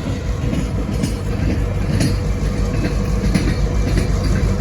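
Freight train rolling slowly past, its wheels clicking over the rail joints, over the steady drone of a diesel locomotive engine.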